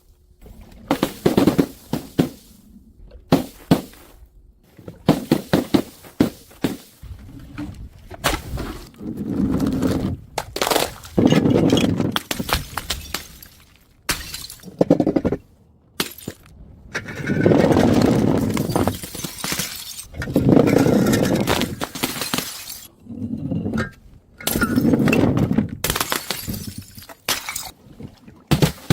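Glass bottles smashing one after another: a long series of sharp crashes and clinks, with several longer stretches of shattering and clattering lasting a second or two each.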